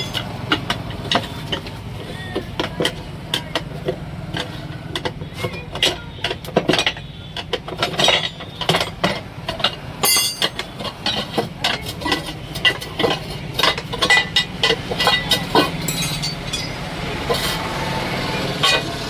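Repeated metal blows, a hammer striking the tyre bead and steel wheel rim during a manual tyre change, irregular, about one to three strikes a second, over a steady low hum.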